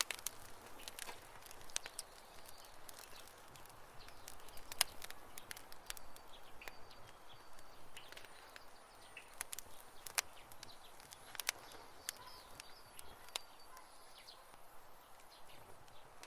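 Wood campfire crackling, with a steady low hiss and frequent sharp, irregular pops and snaps; the loudest comes about five seconds in. Faint short high chirps sound now and then in the background.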